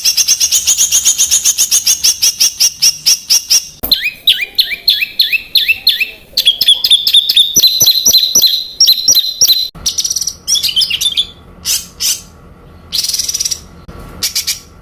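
Songbird song in the dense rapid-fire 'tembakan' style used to tutor competition birds. It opens with long runs of sharp, high repeated notes, about eight a second, then fast downward-sweeping whistles and more rattling runs. About ten seconds in, a different recording cuts in with sparser chirps over a faint steady hum.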